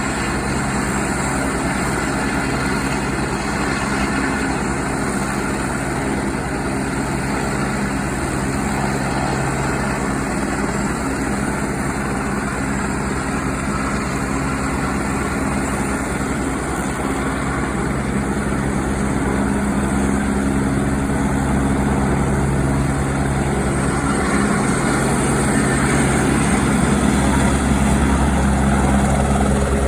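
Helicopter engine and rotor running steadily with a low, even hum, growing a little louder near the end as it builds up for takeoff.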